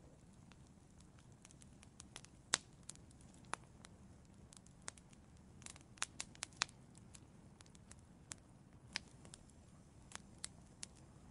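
Wood fire crackling in an outdoor fireplace: scattered sharp pops and snaps over a low steady rumble, the loudest pop about two and a half seconds in and a quick cluster of pops about six seconds in.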